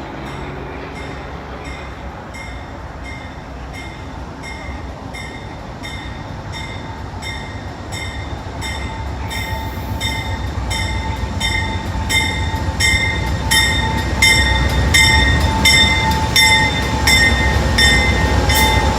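Approaching train with a bell ringing in regular strokes that grow louder and quicker, over a low rail rumble that builds steadily.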